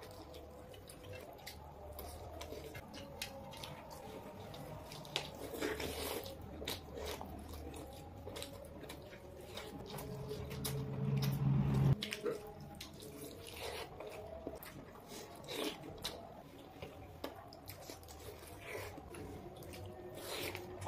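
Close-miked wet chewing and mouth sounds of people eating boiled eggs in curry with their hands: many soft smacks and clicks. Near the middle a louder low drone lasts about two seconds and cuts off suddenly.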